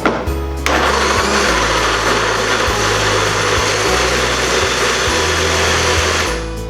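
Electric blender running, grinding chilies with shallots, garlic and cooking oil into a spice paste; it starts about a second in and stops shortly before the end.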